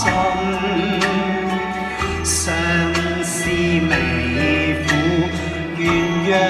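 Singing voice over instrumental backing music with a steady bass and regular beat.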